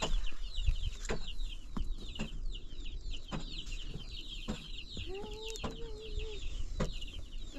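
Chickens: a steady chatter of many short, high, falling peeps, with one drawn-out call about five seconds in. Sharp taps or clicks come about once a second.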